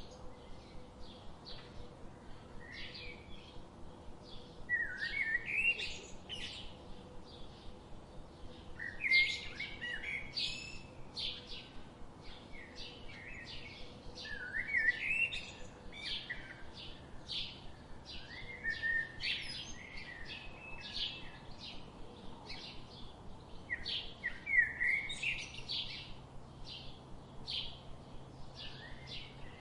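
Songbirds chirping and singing, with a louder burst of song about every five seconds and short chirps in between.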